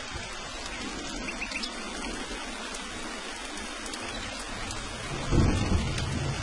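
Steady rain falling, with a low rumble of thunder swelling about five seconds in.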